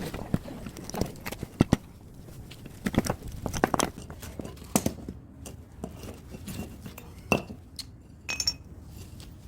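Irregular clinks and knocks of metal tools and scrap parts being handled as an air-conditioner outdoor unit is dismantled for scrap.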